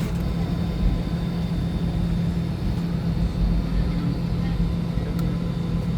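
Steady cabin hum inside an Airbus A320 waiting to depart: an even low drone with a thin, high steady whine above it.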